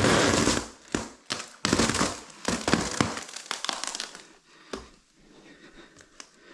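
Plastic film crinkling and crackling as it is handled, with irregular rustles and sharp crackles that are densest in the first three seconds, then thin out to sparse quiet rustles.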